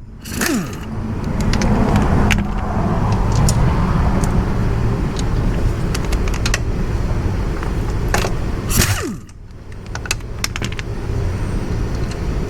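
Pneumatic air tool set to reverse, running to back out bolts on a Yamaha SR400 motorcycle. It runs steadily for several seconds and then spins down with a falling pitch about nine seconds in, with metal clicks scattered throughout.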